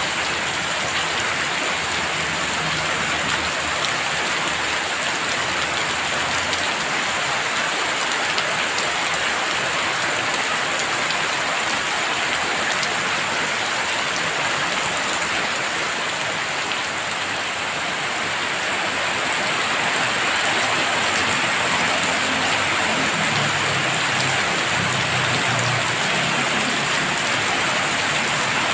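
Heavy rain falling steadily in a dense, even hiss, with a faint low rumble twice.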